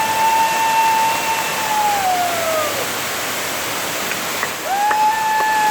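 Waterfall rushing steadily. Over it come two long whistled notes, each held on one pitch and then falling away: the first lasts nearly three seconds, and the second starts near the end.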